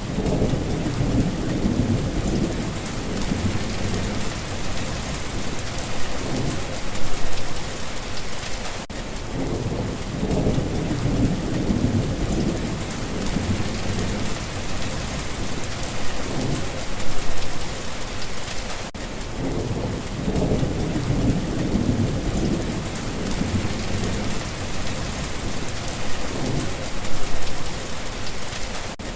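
Steady rain falling, with low rumbles of thunder swelling and fading. The pattern repeats about every ten seconds.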